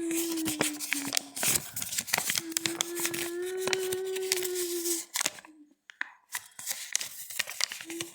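Squeaking: a steady squeal held for a second or two at a time, twice, over crackly scraping and clicking. It stops for about a second near the end.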